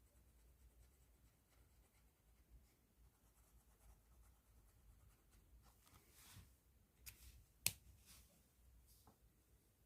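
Pen strokes scratching faintly on paper, growing a little louder after about six seconds, with one sharp click, the loudest sound, about three-quarters of the way through.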